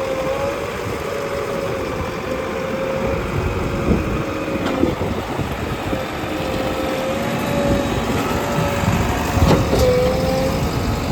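Heavy diesel engine running steadily, with a steady whine that wavers slightly in pitch and two short sharp knocks, one about halfway and one near the end.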